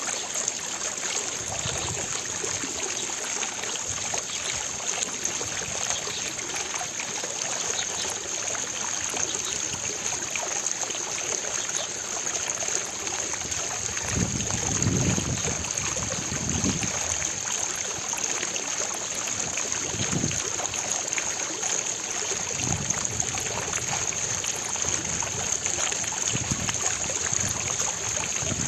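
Fountain water splashing and falling in a steady, even rush, with a few low rumbles in the second half.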